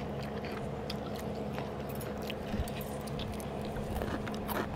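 Close-miked eating sounds: chewing and small wet mouth clicks as rice is eaten by hand, with a faint steady low hum underneath.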